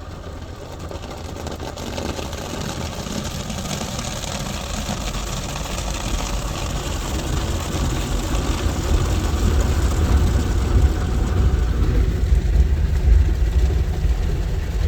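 PDQ ProTouch Tandem soft-touch automatic car wash working over the car, heard from inside the cabin: a steady low rumble under a rushing wash noise that grows gradually louder.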